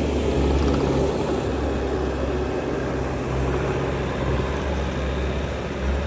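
Diesel engine of a piece of heavy equipment running steadily with a deep, even hum.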